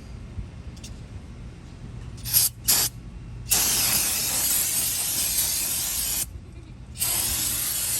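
Aerosol spray can, most likely brake cleaner, hissing in several blasts: two short squirts, then a long spray of about three seconds, then another starting near the end.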